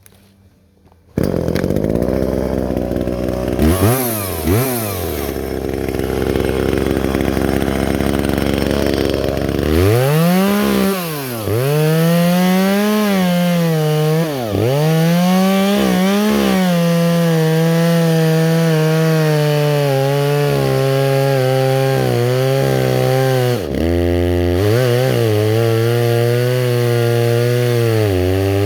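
Chainsaw that comes in suddenly about a second in and runs at a steady high speed. From about ten seconds on it is cutting wood: its pitch drops and recovers repeatedly as it bogs in the cut, then settles into a lower, steady note under load.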